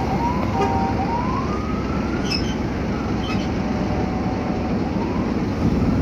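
Interior of a Scania K310UA articulated bus under way: steady engine and road rumble, with a whine that rises in pitch over the first couple of seconds as the bus picks up speed, drops, and starts rising again near the end. A couple of light rattles are heard in the middle.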